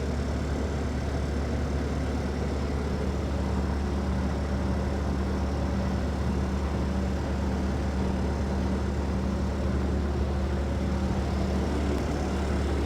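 Steady low machine hum with a faint constant tone above it, unchanging throughout.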